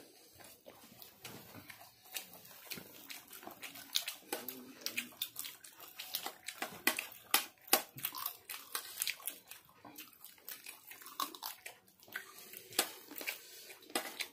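Close-up eating sounds of people chewing fried chicken lollipops: a dense run of wet mouth clicks, lip smacks and chewing, busiest a few seconds in.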